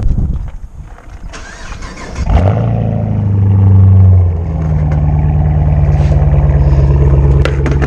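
Car engine starting about two seconds in, revving briefly, then settling into a steady idle.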